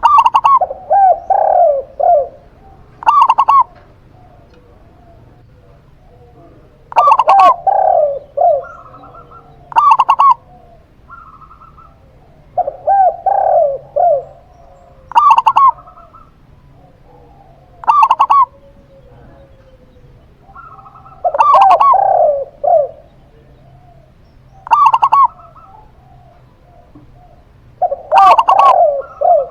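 Cooing of a zebra dove (perkutut) and a spotted dove (tekukur), as short rhythmic phrases repeated every few seconds. Longer multi-note phrases alternate with short single coos.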